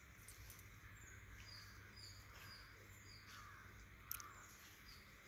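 Faint outdoor ambience with a small bird chirping softly, short high chirps repeating about every half second, and a brief click about four seconds in.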